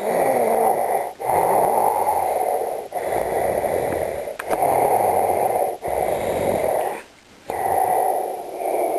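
Darth Vader's mechanical respirator breathing: a hissing, rasping inhale and exhale, alternating about six times with short pauses between.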